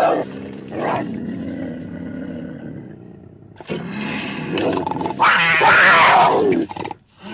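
Digitally edited hamster vocalisations that sound like a large animal's roars and growls. A series of long, rough calls, the loudest about five seconds in, falling in pitch, then cut off abruptly near the end before one short burst.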